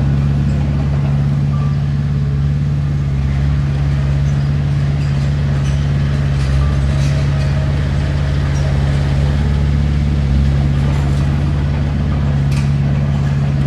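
Heavy diesel engine of an earthmoving machine running loud and steady at an even speed, a deep drone with no change in pitch.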